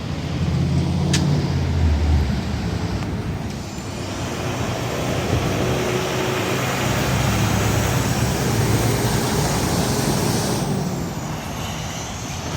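Road traffic passing close by: a heavy vehicle's engine runs low in the first two seconds, then a long rush of tyre and road noise that falls away about ten and a half seconds in.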